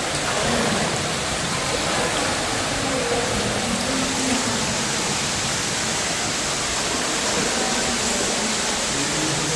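Underground waterfall or cave stream rushing in a steady, even hiss.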